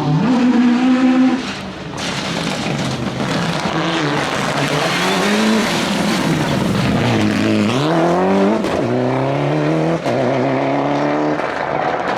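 Rally car engine running hard, its pitch climbing and dropping again several times as it accelerates, lifts and shifts: a deep dip and steep climb about two-thirds of the way through, then a drop near the end. A steady rushing noise sits under the engine for most of the time.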